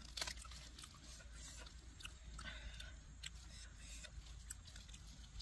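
A person chewing food, with small, irregular wet clicks and smacks of biting and mouth sounds.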